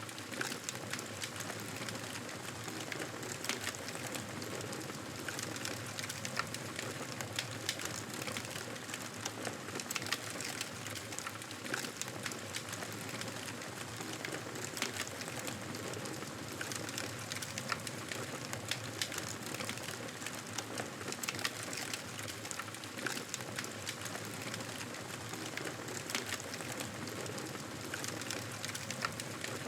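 Campfire burning: a steady hiss with frequent, irregular crackles and pops.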